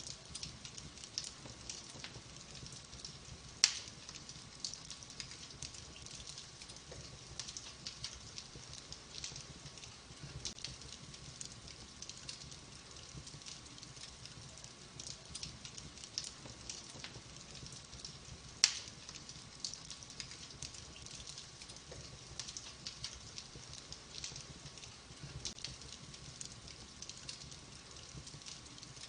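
Wood fire burning in a fireplace: soft, continuous crackling of the logs, with two sharp, louder pops, one a few seconds in and one a little past the middle.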